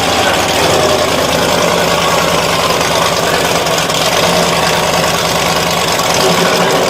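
Monster truck engine idling, loud and steady, with a deep even rumble.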